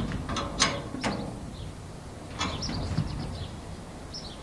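Irregular sharp metallic clicks and clinks of tools and bolt fittings as the straight arm is fastened to the garage door's canopy door adapter arm. A few come in the first second and another cluster follows a couple of seconds later.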